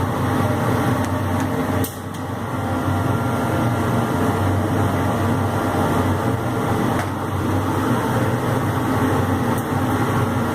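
Laser cutting machine at work on MDF: a steady mechanical hum of its fans and drives, with a few short clicks about two, seven and nine and a half seconds in.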